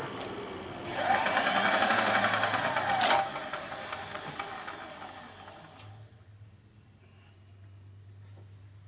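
Machine-shop equipment running: a loud hissing, whirring noise with shifting tones starts about a second in and dies away around six seconds, leaving a low steady hum.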